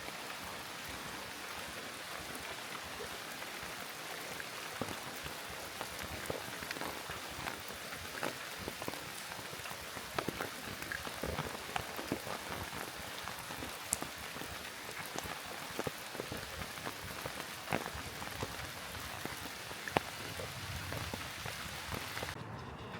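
Rain falling steadily, a continuous hiss with many close individual drops tapping. The high hiss drops away suddenly shortly before the end.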